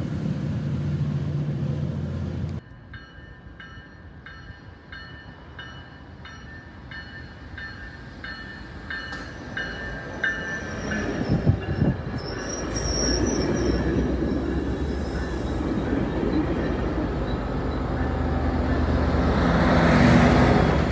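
Tri-Rail commuter train passing a grade crossing. A loud steady rumble cuts off abruptly after a couple of seconds, and the crossing bells ring about twice a second. Then the train's wheels over the rails build up, with a couple of knocks and a brief high wheel squeal, and grow loudest as the diesel locomotive pushing at the rear passes near the end.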